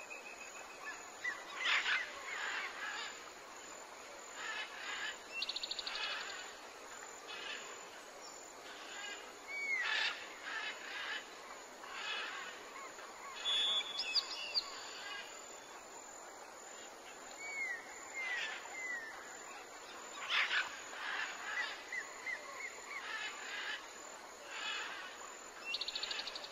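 Several birds calling: short chirps and curving whistled notes, with a fast rattling trill about five seconds in and another near the end, over a steady background hiss.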